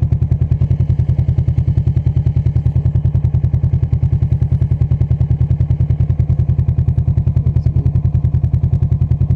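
Motorcycle engine running steadily with a rapid, even pulse and a strong low hum, holding a constant speed.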